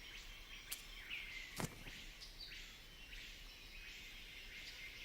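Faint tropical forest ambience: high buzzing calls repeating in short stretches, a few starting with a brief falling sweep. Two sharp clicks come about a second apart early on.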